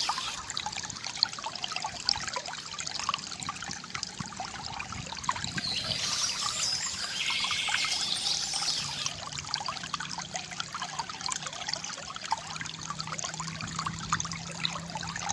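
Water trickling and pouring steadily from a bamboo fountain, with birds chirping about six seconds in.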